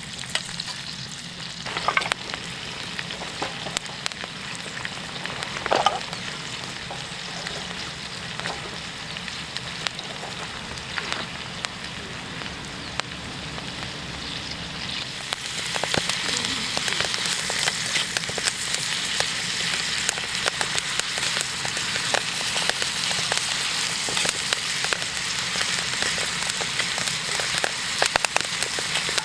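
Food sizzling in a pan over a campfire, with a few sharp clinks of a utensil early on; about halfway through the hiss becomes louder and denser.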